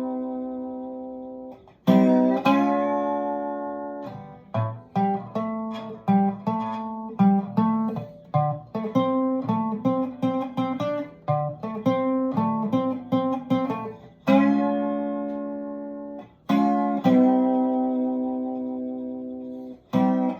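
Guitar music: full chords struck and left to ring out, then a quick run of single picked notes for about ten seconds, then more ringing chords about 14 and 17 seconds in and again at the very end.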